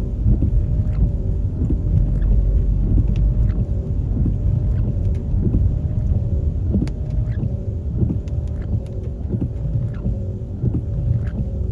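Steady low rumble of a motor vehicle on the road, engine and tyre noise, with a faint steady drone and scattered light clicks and rattles throughout.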